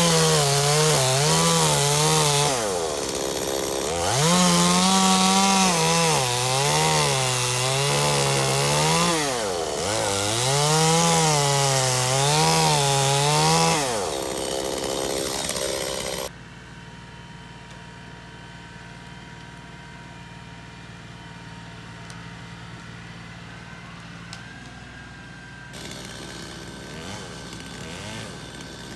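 Stihl MS 250 two-stroke chainsaw running at high revs and cutting wood, its pitch sagging and recovering several times as the chain loads up and the throttle is eased. About halfway through it gives way abruptly to a much quieter, steady engine hum.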